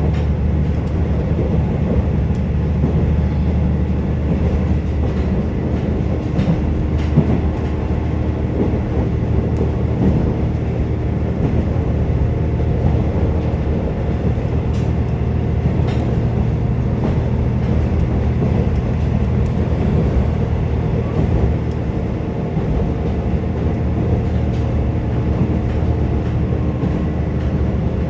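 Cabin of a KiHa 47 diesel railcar under way: a steady diesel engine drone and the rumble of the wheels on the rails, with scattered clicks from the rail joints.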